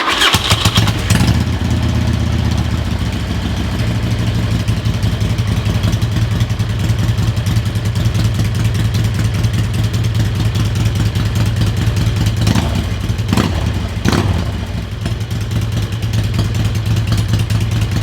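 Harley-Davidson V-twin engine on its first start after a rebuild: it fires and settles into a steady idle, with a few short throttle blips about two-thirds of the way through.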